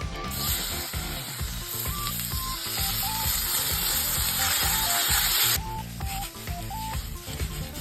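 Food sizzling in a hot pan, a loud steady hiss that starts just after the beginning and cuts off abruptly about five and a half seconds in. Background music with a simple stepping melody runs underneath.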